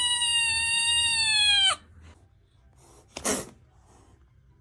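Feral kitten giving a long, high, steady yowl that ends with a downward drop about a second and a half in, then one short, sharp hiss-spit about three seconds in: an angry, defensive kitten.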